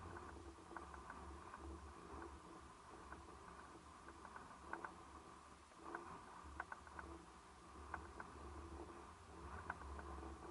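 Faint seaside ambience: a low uneven rumble with scattered light clicks.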